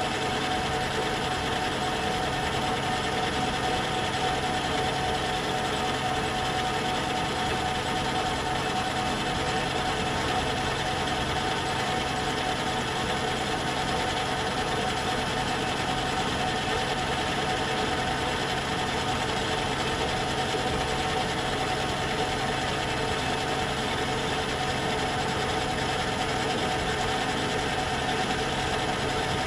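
Myford metal lathe running steadily under a slow fine power feed, taking a light finishing skim cut; its gear train makes a steady humming noise.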